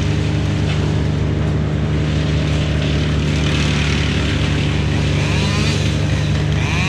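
Heavy diesel engine running steadily at a constant speed, with a few faint short rising whistles near the end.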